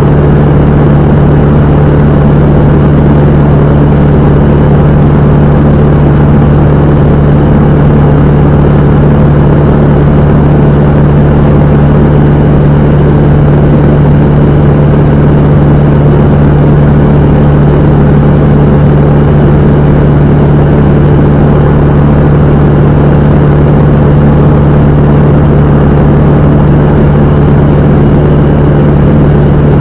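Cessna 172M's four-cylinder Lycoming piston engine and propeller running at a constant speed: a loud, steady drone with a strong low hum that does not change.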